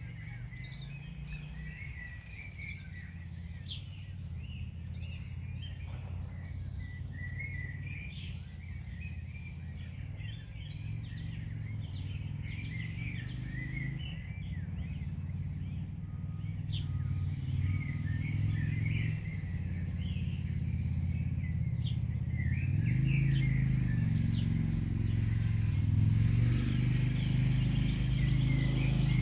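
Several birds chirping and singing in quick short calls throughout. Under them a low rumble grows steadily louder and is loudest near the end.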